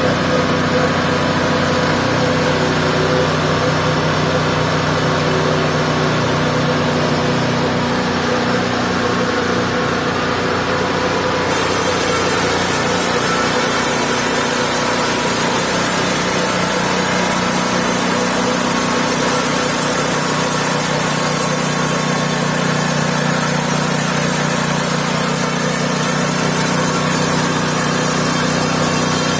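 Mobile band sawmill running steadily, its motor holding an even pitch. A higher hiss joins about a third of the way through and stays.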